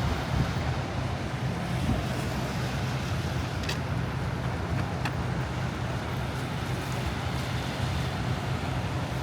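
Steady city traffic noise: a continuous low rumble of passing road vehicles, with two faint ticks partway through.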